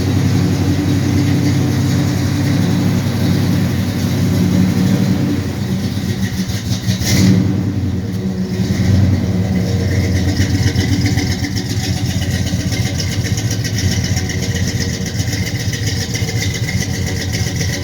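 1968 Pontiac GTO's V8 running just after a cold start, idling steadily with a deep rumble. A short, loud burst comes about seven seconds in, after which the low rumble eases a little and a fast, light ticking stands out more.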